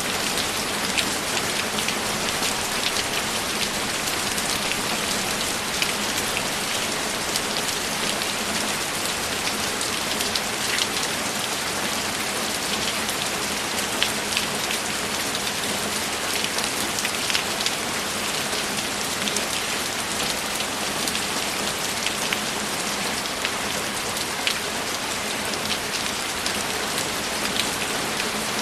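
Steady rainfall, with scattered louder drops ticking sharply through the even hiss.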